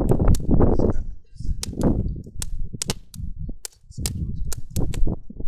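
Wood crackling and popping in a campfire: a string of sharp, irregular snaps over a low rumbling noise.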